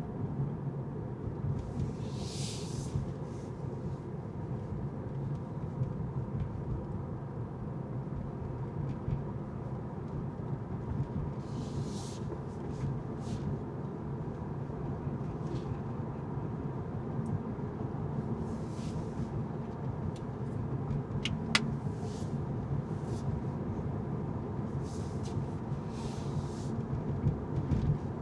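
Steady low rumble of a car driving on city streets, with brief hissing swishes several times and one sharp click a little after twenty seconds in.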